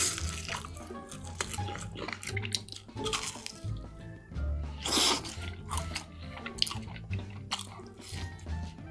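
Eating sounds over background music: small wet clicks of chewing, with a louder noisy bite or slurp at the start and another about halfway through.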